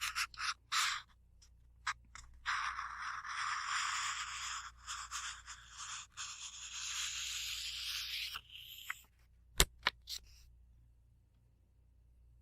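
Book pages being handled: a few quick page flicks, then several seconds of paper rubbing and sliding, then a few sharp clicks about three-quarters of the way through, the first of them the loudest.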